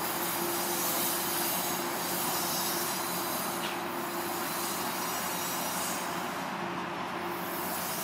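GO Transit bilevel commuter train pulling away down the track: a steady rush of wheels on rails with a faint, steady, even tone beneath it.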